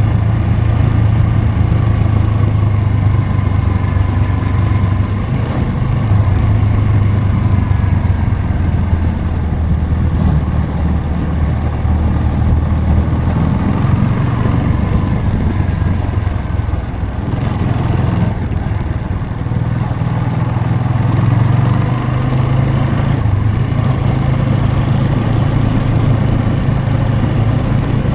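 Motorcycle engine running steadily on the move, its low note easing for a moment a little past the middle before picking up again.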